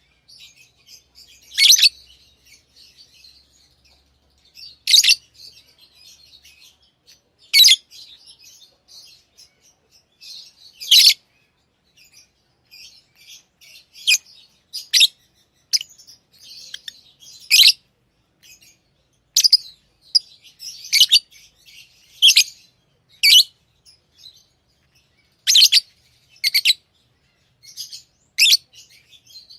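Pet lovebirds calling: short, loud, high-pitched chirps every second or two, with softer twittering in between.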